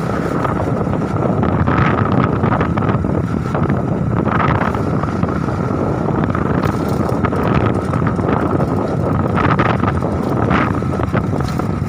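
Strong wind buffeting the microphone: a loud, steady rumble of wind noise, with a faint steady high tone underneath.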